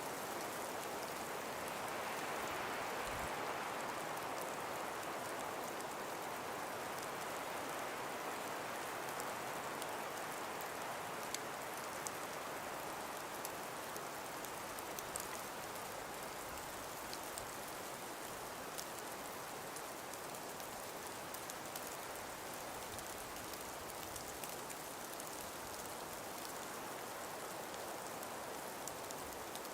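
Calm breeze blowing steadily through frost- and ice-covered forest trees, swelling a little a few seconds in, with scattered faint ticks.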